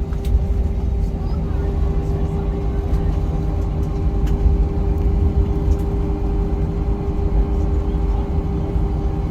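Jet airliner cabin noise heard from inside the cabin: a steady low rumble with a constant hum, and a few faint clicks.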